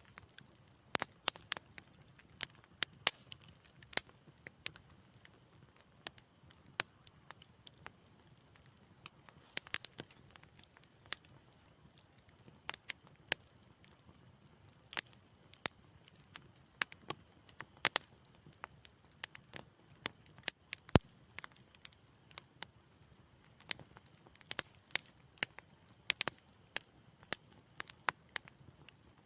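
Wood fire crackling in a fireplace: irregular sharp pops and snaps over a faint low hiss. One crack about two-thirds of the way through stands out as the loudest.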